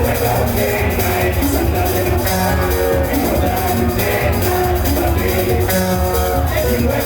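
Live band music with a steady drum beat, a strong bass line and melodic instrument lines.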